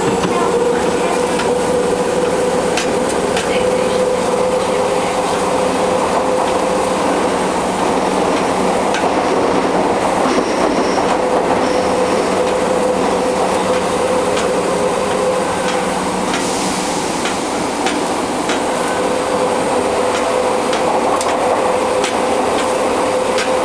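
Fukuoka City Subway N1000 series train running, with steady wheel and rail noise and scattered clicks over the rail joints. Over it sits a steady whine that swells and fades, the abnormal noise this car makes, like the jet sound of JR Kyushu's 811 series.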